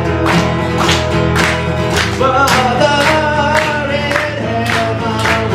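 Live performance of a slow blues song: a singing voice over instruments, with a steady beat of about two strokes a second.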